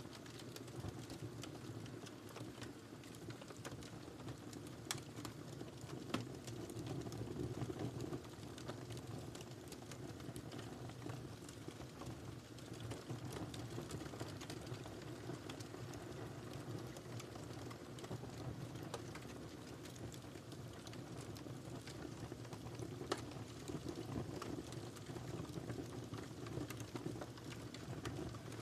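Wood fire in a fireplace crackling, a steady low rumble of burning under frequent small snaps, with a few louder pops about five seconds in, about six seconds in and near the end.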